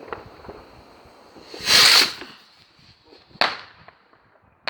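Firework rocket launching with a loud hiss lasting about half a second, then about a second and a half later a single sharp bang as it bursts in the air.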